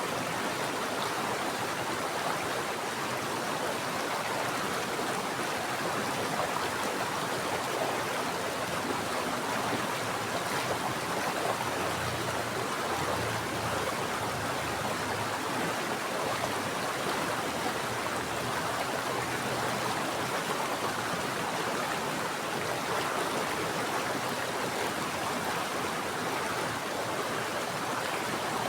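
Running water of a mountain stream, a steady, even rush.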